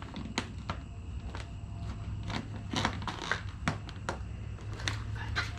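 Scattered crinkles and light clicks of vinyl wrap film being handled and stretched over a truck grille, over a steady low hum.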